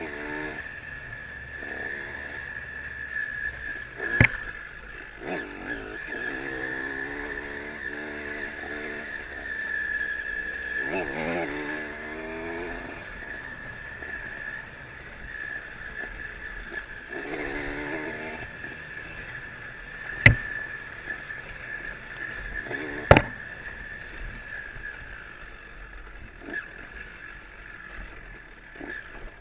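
Dirt-bike engine being revved in bursts on a trail, its pitch rising and falling over a steady high whine. Three sharp knocks stand out, one about four seconds in and two later, close together.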